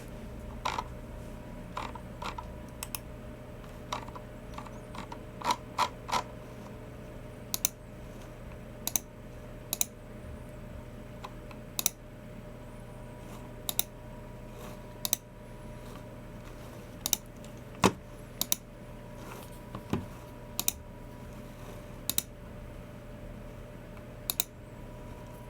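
Occasional clicks from a Logicool MX Keys Mini keyboard's low-profile keys and a Logicool G304 mouse's buttons: single and paired clicks, irregularly spaced, roughly one a second. A faint steady hum sits under them.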